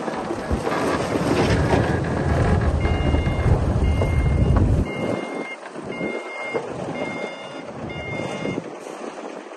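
Heavy diesel engine of a bulldozer working under load, its deep rumble dropping away sharply about halfway through. From about three seconds in, a backup alarm beeps about once a second, six times, signalling the machine reversing.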